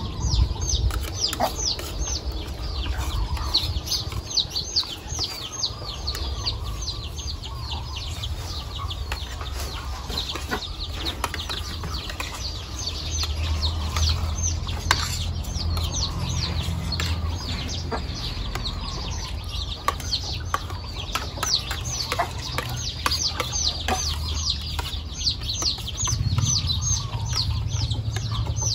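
Birds chirping continuously in quick, high, falling notes, with the occasional clink of metal spoons on plates and a low rumble underneath.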